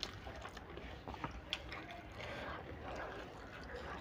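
Close-up eating sounds: a mouthful of egg noodles being chewed, with wet mouth clicks and fingers squishing and gathering noodles from a banana leaf. Several sharp clicks stand out, the loudest about a second and a half in.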